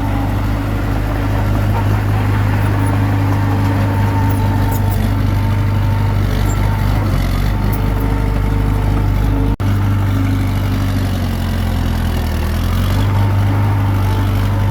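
Komatsu D21P bulldozer's diesel engine running steadily under working load, its pitch shifting slightly now and then. The sound drops out for an instant a little under ten seconds in.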